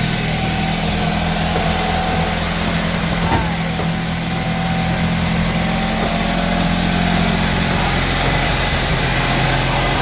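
1965 Fiat 500F's air-cooled two-cylinder engine idling steadily on its first run after installation, not yet tuned, with a brief click about three seconds in.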